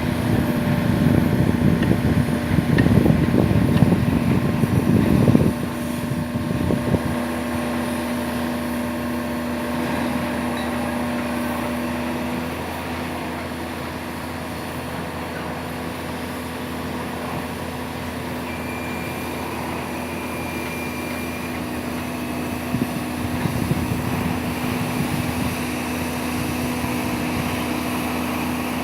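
Steady engine hum with a constant low tone throughout. Louder rough rumbling lasts for the first five seconds or so and returns briefly about three-quarters of the way through.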